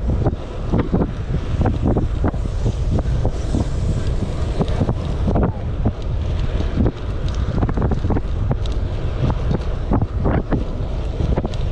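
Wind buffeting the microphone of a riding cyclist: a constant low rumble broken by irregular gusty thumps.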